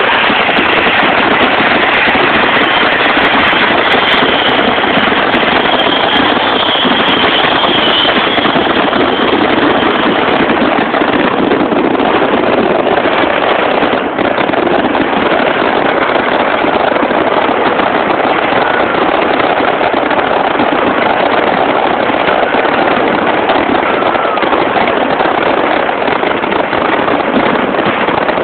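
Fireworks going off in a loud, unbroken rush of dense crackling noise, with a faint high whistle a few seconds in.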